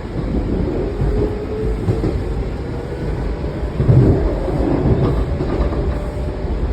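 WMATA 7000-series Metro railcar running on the track, heard from inside the car: a steady low rumble of wheels on rails with a faint steady hum, and a louder low thump about four seconds in.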